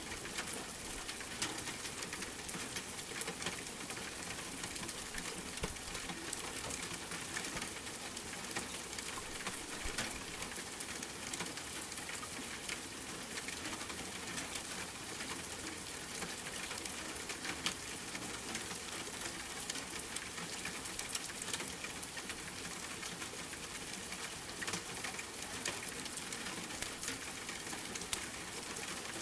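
Steady rain hiss with a fireplace crackling, frequent small sharp crackles scattered through it.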